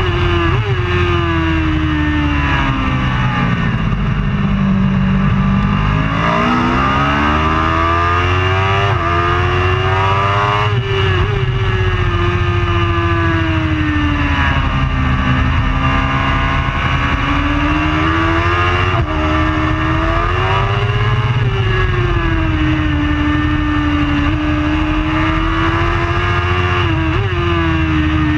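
Racing superbike engine at high revs, its pitch slowly rising and falling throughout, with a few sudden jumps in pitch.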